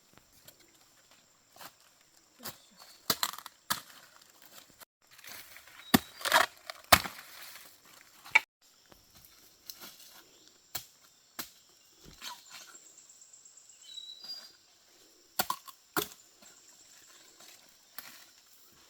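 Irregular sharp cracks, snaps and crunches, some loud, with the loudest cluster about six to seven seconds in and two more near the end, over a faint background of high chirps.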